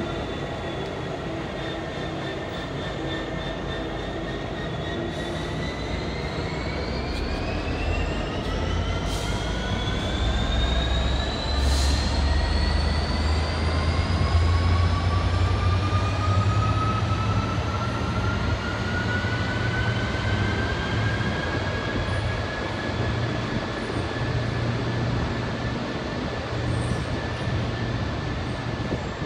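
Train accelerating away: a whine from its traction equipment rises steadily in pitch for about fifteen seconds and then levels off, over a low rumble that swells in the middle.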